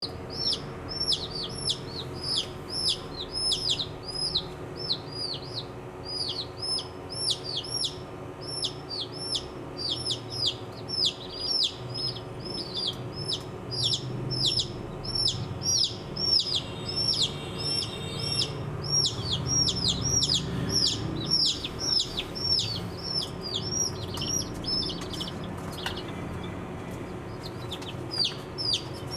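A group of baby chicks peeping continuously: a rapid run of short, high-pitched peeps, each dropping in pitch, several a second with a few calling at once. A faint steady hum runs underneath.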